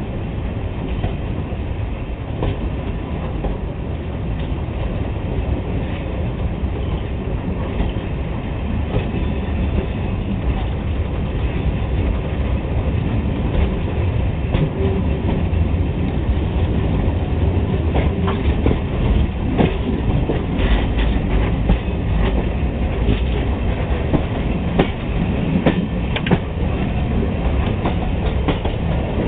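Train running along the track: a steady rumble with the clickety-clack of wheels over rail joints, getting a little louder and busier as it goes.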